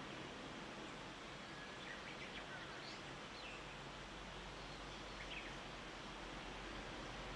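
Steady background noise of a rural morning, with a low hum underneath and a few faint, short bird chirps at about two to three and a half seconds and again a little after five seconds.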